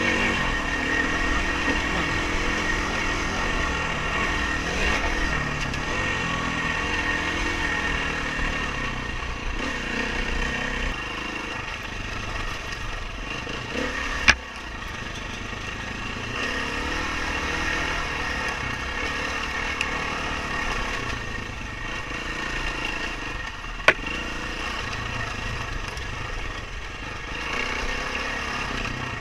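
Dirt bike engine running under a rider, its pitch rising and falling with the throttle. Two sharp clicks cut through it, about ten seconds apart, in the middle stretch.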